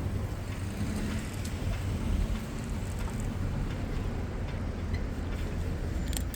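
Steady low rumble of city traffic and wind noise, heard from a moving bicycle, with a few faint ticks.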